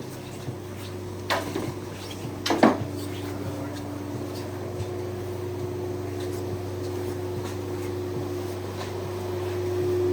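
Chairlift running with a steady hum, and two metallic clanks a little over a second apart as the chair rolls over the lift's line sheaves.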